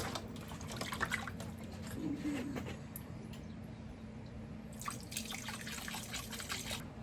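Water splashing and dripping as rinse water is poured off raw chicken pieces being cleaned. It comes in two spells with a quieter stretch in between.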